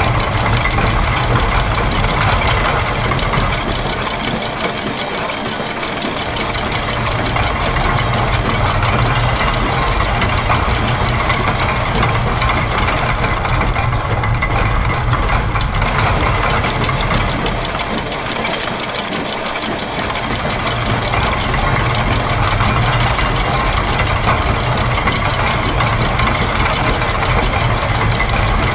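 A dense, continuous mix of looped factory machine sounds (gears, press, clockwork spring, ratchet and sewing machine) layered into a steady mechanical churn with a low rumble underneath. The low rumble drops back briefly about five seconds in and again near twenty seconds, and the high hiss thins for a couple of seconds around the middle.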